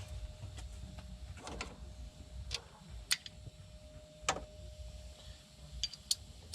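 Scattered sharp clicks and knocks of hand tools and parts being handled in a car engine bay, a handful of separate strikes over a low rumble, with a faint steady tone throughout.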